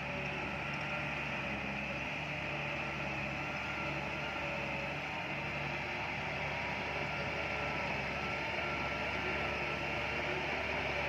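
Diesel engine of a heavy earthmoving machine, most likely a bulldozer, running steadily with a constant drone and faint steady whine.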